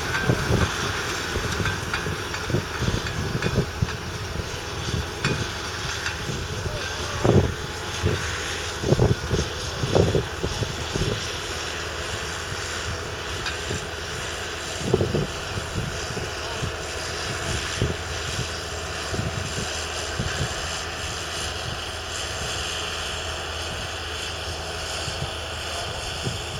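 Fendt 936 Vario's 9.0-litre six-cylinder diesel engine running steadily under load while pulling a reversible plough, with several sudden low thumps over the drone, the loudest about a third of the way in and again around the middle.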